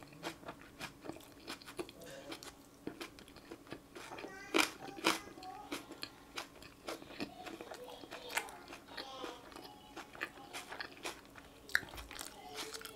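Crunchy food being chewed close to the microphone: an uneven run of crisp crunches and bites.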